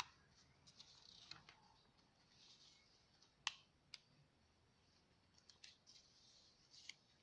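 Faint rustling of paper and card as the pages of a handmade journal are handled and turned, with a few sharp, light clicks, the clearest two about halfway through, half a second apart.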